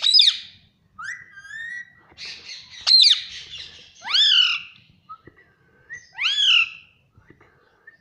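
Indian ringneck parakeet squawking: four loud, arching screeches with softer rising chirps in between.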